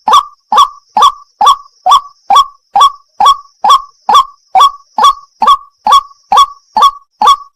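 White-breasted waterhen (wak wak bird) calling "wak" over and over, about two short, upward-sweeping notes a second in an even, unbroken rhythm.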